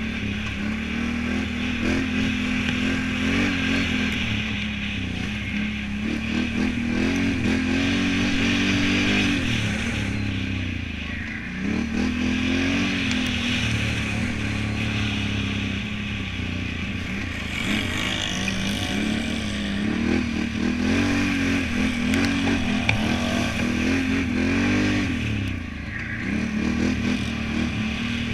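Can-Am Renegade 1000 ATV's V-twin engine revving up and down under throttle as it is ridden, the pitch climbing and dropping again and again.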